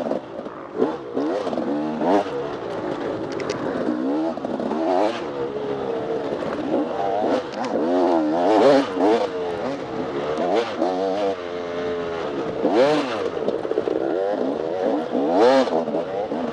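Off-road dirt bike engine revving up and down over and over as the throttle is worked on and off, with short knocks and clatter from the bike every few seconds.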